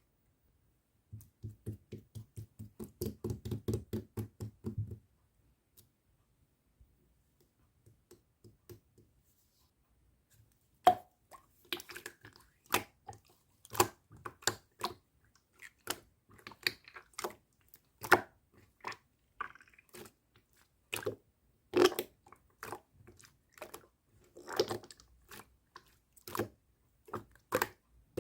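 Pearl slime being worked by hand: a run of soft, deep squishes at about four a second, then after a pause a string of irregular sharp pops and clicks as air pockets in the slime burst.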